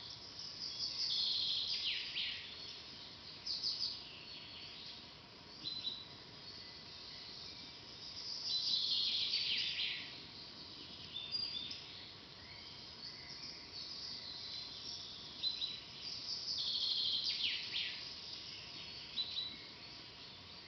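Forest songbirds singing: a loud song phrase of high notes sliding downward comes about every seven or eight seconds, with shorter chirps between, over a faint steady hiss.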